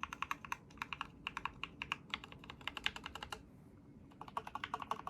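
Typing on a custom mechanical keyboard: an Idobao ID80 v2 with lubed KTT Strawberry linear switches and PBT keycaps, quick keystrokes with a short pause about three and a half seconds in. It sounds really hollow.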